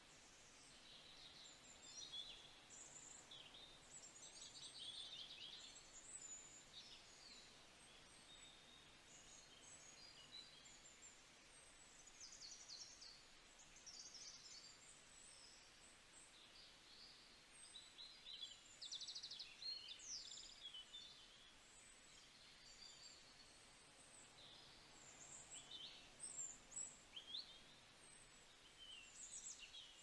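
Faint chirps, whistles and quick trills from several small songbirds, overlapping, over a low steady background hiss.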